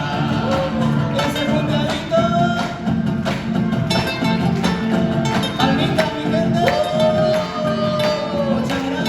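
Live Argentine folk music: a melody sung over strummed strings and percussion with a steady, even beat.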